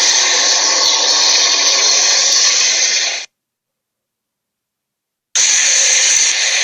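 A loud, steady rushing noise, like a motor or blower, cuts off abruptly about three seconds in. After two seconds of dead silence it starts again just as abruptly.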